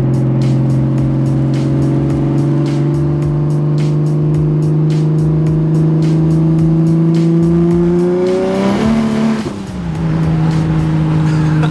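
BMW 135i's N54 inline-six, converted to a single turbo and running an open exhaust that dumps straight from the downpipe, pulling in third gear with a throaty note that rises slowly in pitch for about eight seconds. Then the revs drop with a brief hiss and a dip in level, and it settles at a steady lower pitch, heard from inside the cabin.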